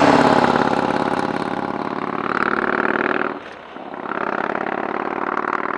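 A motorcycle engine running under power, loudest at the start. About three and a half seconds in, the sound briefly drops away and then picks up again, as in a gear change.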